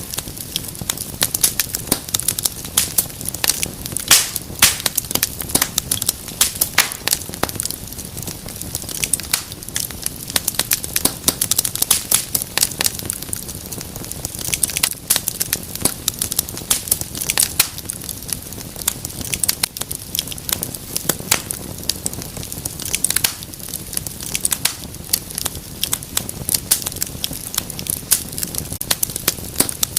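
Wood fire crackling in a fireplace: a dense, irregular run of sharp pops and snaps over a steady hiss.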